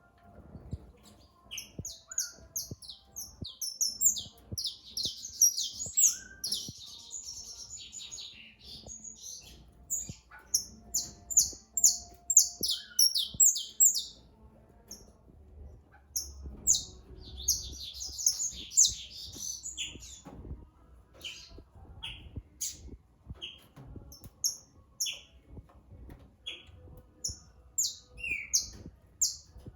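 Several small songbirds chirping and singing at once in a dawn chorus of short, high notes. The notes come in dense flurries, then thin out to scattered single chirps near the end.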